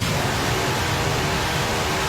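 Electric fan blowing, a steady rushing noise with a faint hum, cutting in abruptly.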